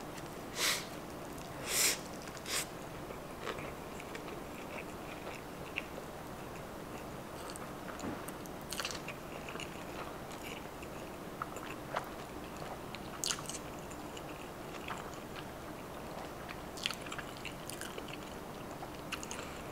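Close-miked chewing of a mouthful of sushi roll with shrimp tempura and fried jalapeño popper: three louder crunchy bites in the first three seconds, then soft, scattered mouth clicks as she keeps chewing.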